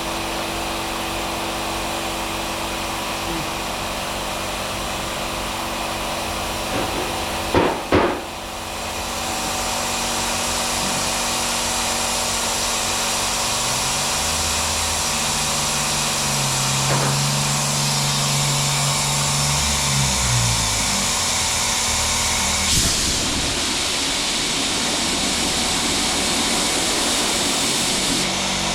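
A power tool running steadily, with two sharp knocks about eight seconds in.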